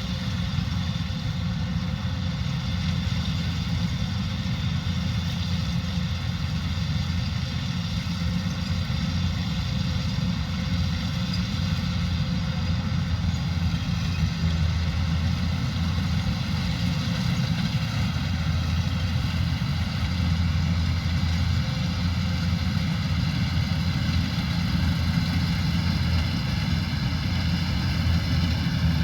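Kubota combine harvester's diesel engine running steadily at working speed, with a constant machinery whine above it.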